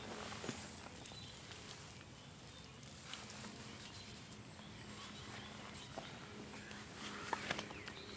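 Faint outdoor background with scattered light clicks and scuffs, a few sharper ones near the end.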